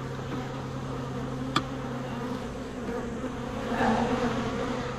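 Honeybee colony buzzing from an opened hive: a steady, even drone, with one sharp click about a second and a half in.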